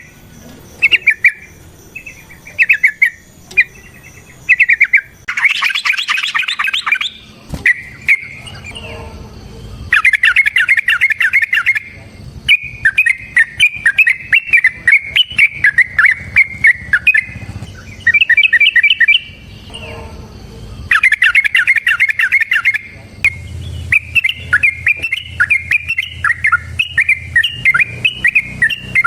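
Yellow-vented bulbul (trucukan) singing loud, bubbly chirping phrases, first in short bursts with pauses, then running into a long rapid sequence in the second half.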